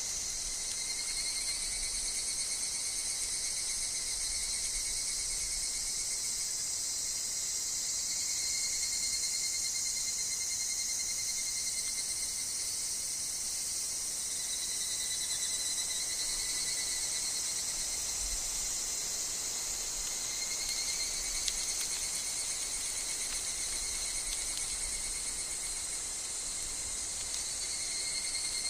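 A steady, dense chorus of calling insects, high-pitched, with thin sustained trills running beneath it.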